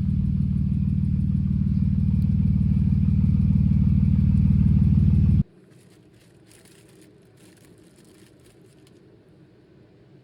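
BMW E46 engine running steadily at a low, even hum, driving the freshly refilled rear differential with no load on it. The sound cuts off abruptly about five seconds in, leaving only faint hiss.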